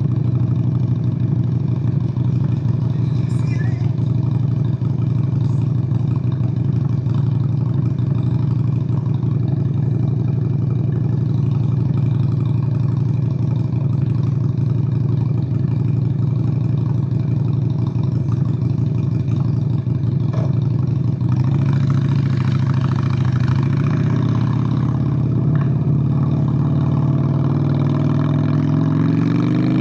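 Honda Steed VLX 600 (Shadow 600) 583 cc V-twin engine running at a steady pace under way, recorded from the rider's seat. A rushing noise builds from about twenty seconds in, and the engine note changes pitch near the end as the revs shift.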